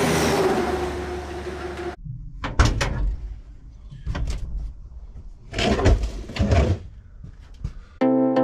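A door being handled: a rushing noise that cuts off sharply about two seconds in, then a series of knocks and clunks.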